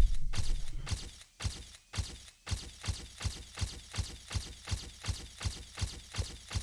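A steady series of sharp knocks or ticks, about three a second, following a low rumble with a few hits at the start.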